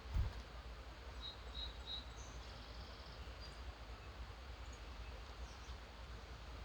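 Songbirds calling faintly at dawn: three short high chirps a little over a second in, then a brief high trill, with a few scattered faint notes later. A steady low rumble runs underneath, and a soft low thump comes just after the start.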